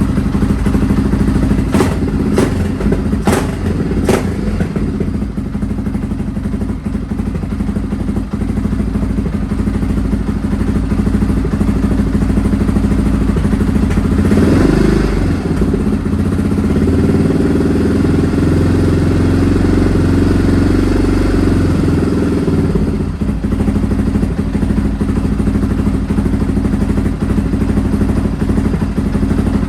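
Honda XR650R's single-cylinder four-stroke engine running steadily on its first run in years, with a quiet engine and a nice-sounding exhaust. A few sharp clicks come about two to four seconds in, and about halfway through the engine speed changes for several seconds before settling back.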